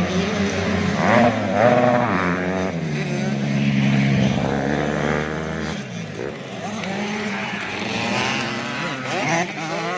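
Several 85cc two-stroke motocross bikes revving on the track, their engine pitches rising and falling over one another as riders work the throttle. A deeper drone drops away about six seconds in.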